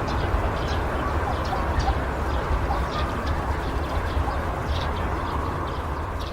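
Passenger train rolling past on the track: a steady low rumble of wheels on rails, with short high chirps over it.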